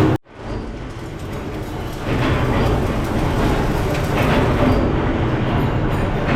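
Steady, loud rumble of running machinery, cut off abruptly just after the start and resuming, then growing louder about two seconds in.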